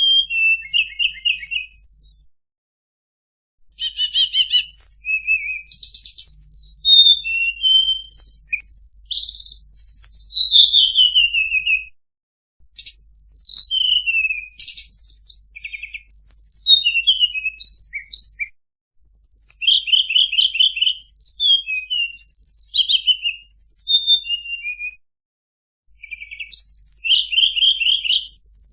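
Tledekan songbird singing long phrases of quick, varied whistles, chirps and rapid trills, with short pauses between the phrases.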